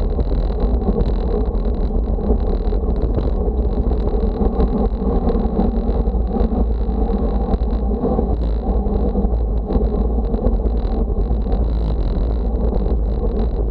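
Wind buffeting the microphone with a steady rumble of road noise underneath, as from a camera on a moving bicycle on a windy day.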